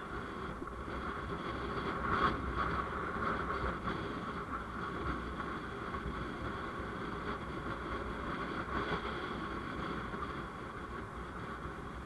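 Steady road and traffic noise recorded from a moving vehicle: a continuous rumble with a hiss, a little louder for a moment about two seconds in.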